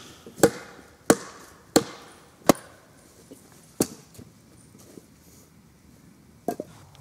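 Firewood being chopped: sharp blows of a blade into wood, four in a steady rhythm, then two more spaced further apart.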